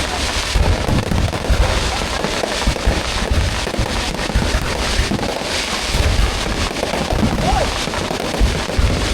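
Fireworks display going off without a break: a dense run of bangs and low booms with crackling throughout.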